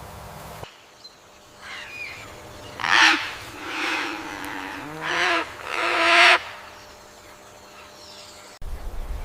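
An animal calling about four times in a row, each call short and harsh with a pitched undertone.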